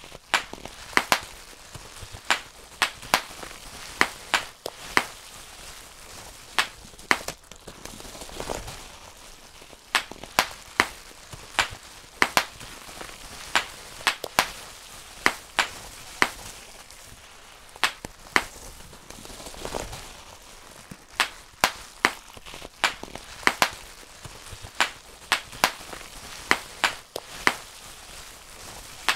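Bubble wrap being popped by hand, one bubble at a time: sharp single pops coming irregularly, about one or two a second, with a soft crinkle of the plastic sheet between them.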